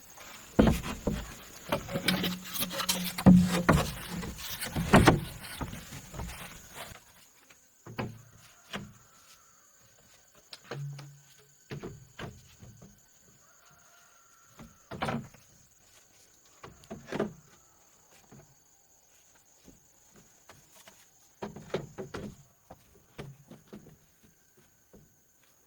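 Bamboo poles being handled and knocked together, a busy run of wooden knocks and clatter for the first six seconds or so, then single knocks every second or two.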